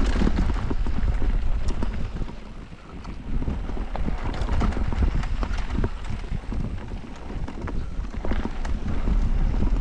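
Electric mountain bike rattling and clattering over a rough downhill trail, with many quick knocks from the tyres and frame, and wind buffeting the microphone.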